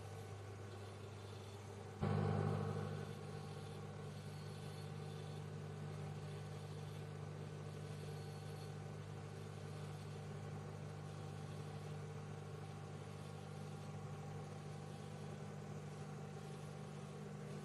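Microwave oven running with a steady low hum and fan hiss. About two seconds in the sound jumps suddenly louder, then settles back to the steady hum within about a second.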